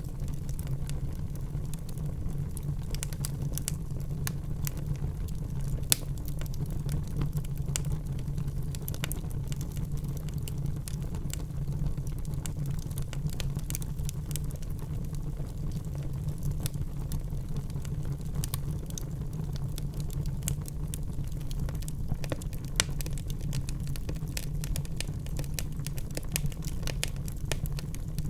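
Wood fire crackling in a fireplace, with scattered sharp pops over a steady low rumble; one pop stands out about six seconds in.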